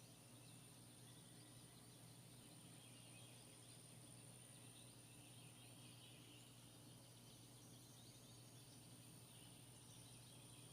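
Near silence: faint outdoor ambience, a steady low hum and a thin high whine with scattered faint high chirps.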